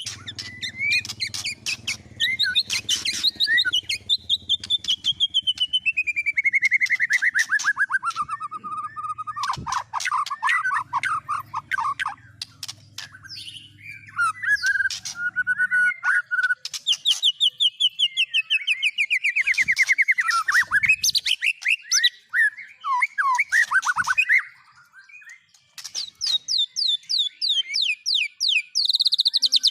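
Recorded songbird song: fast chirps and long rolling trills that slide down in pitch, a short pause about 25 seconds in, then a quick run of high repeated notes near the end. A faint low hum sits under the song at times.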